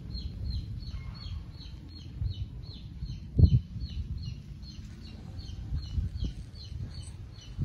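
A small bird chirping over and over, short high falling calls about four a second, over a low rumble. A single loud thump comes about three and a half seconds in.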